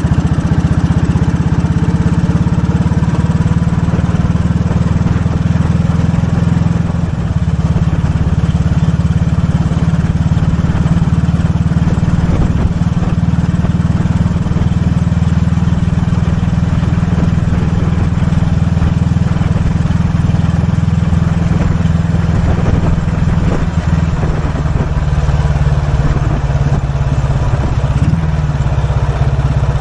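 1943 Royal Enfield WD/CO's 350cc overhead-valve single-cylinder engine running steadily under way, its pitch easing down slightly near the end.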